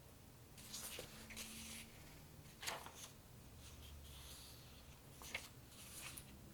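Quiet scratching and rustling from small objects being handled, with a couple of sharp light clicks.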